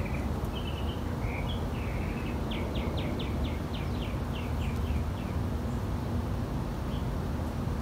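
A small bird singing: a few short notes, then a quick run of about a dozen repeated notes, about five a second, that stops about five seconds in. A steady low rumble runs underneath.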